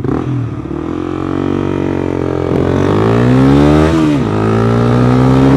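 Motorcycle engine pulling away from idle, revs climbing steadily in a rising pitch. About four seconds in the pitch drops quickly at an upshift, then climbs again.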